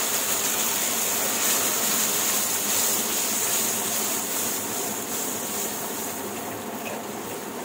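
Poppy-seed and green-chilli paste frying in hot oil in a wok, sizzling steadily as a little water is poured in and stirred through. The sizzle slowly dies down.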